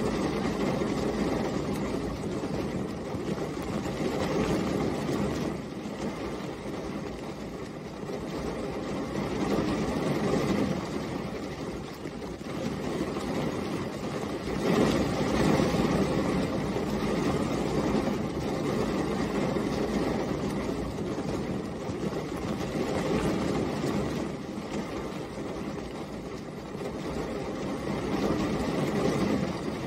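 Steady rain, a dense low hiss that swells and eases every few seconds.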